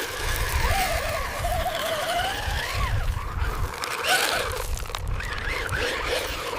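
Small electric motors and gearing of a radio-controlled construction machine whining, the pitch rising and falling as it works, over a low rumble.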